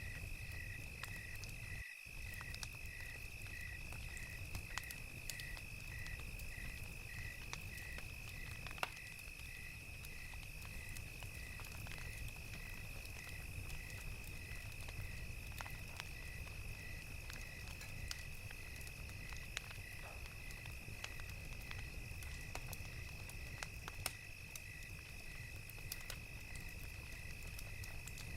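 Crickets chirping evenly about twice a second over a steady high insect trill, with the occasional sharp crackle and pop of a wood fire and a low rumble beneath.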